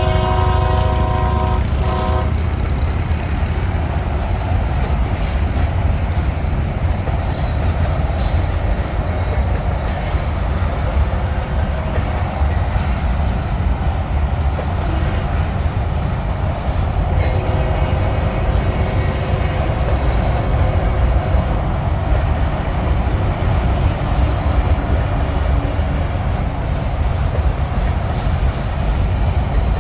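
Freight train horn chord that cuts off about two seconds in, followed by the steady low rumble of a freight train's cars rolling slowly past, with scattered clicks of wheels over the rails and a faint wheel squeal now and then.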